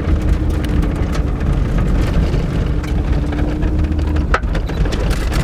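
4x4 truck driving on a dirt track: a steady low rumble with a constant patter of small rattles and knocks, and one sharper knock about four seconds in.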